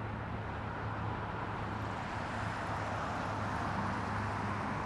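Jet airliner engines running on approach to land: a steady roar with a low hum underneath, growing slightly louder.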